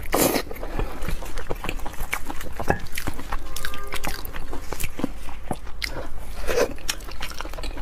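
Close-miked chewing and biting of braised pork knuckle: many small, wet clicks and smacks from the mouth working through soft, sticky skin and meat. The meat is also torn apart by gloved hands.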